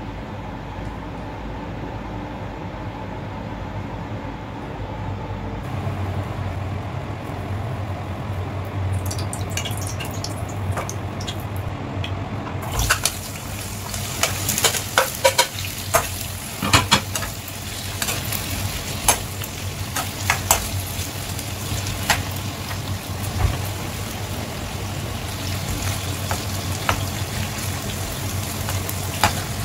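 Cubed potato and carrot hitting hot oil in a nonstick frying pan and sizzling, with sharp clinks of a metal spoon against the pan and plate as the pieces are pushed in. Before the sizzle begins, partway through, there is only a steady hum.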